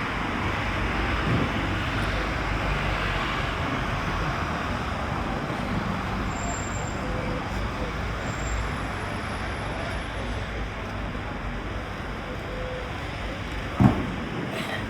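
Street traffic noise: a steady rush of passing cars, with a single sharp knock near the end.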